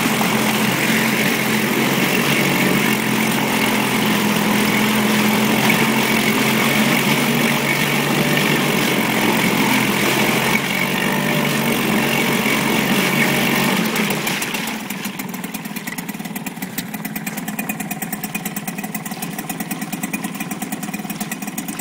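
Suzuki 4 hp outboard motor running steadily, then slowing and quietening about fourteen seconds in to a lower, evenly pulsing idle.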